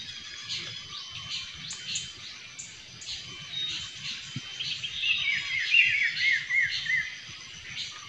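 Several small birds chirping and calling in the trees. About five seconds in, one bird sings a quick run of about seven notes, each falling in pitch.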